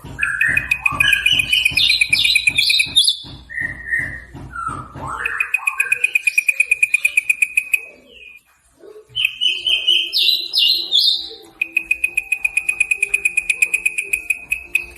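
Small songbirds singing: a fast, even trill of sharp repeated notes, about eight a second, alternating with quick jumbled phrases of chirps. The song breaks off briefly a little past the middle, then the trill resumes and runs steadily toward the end.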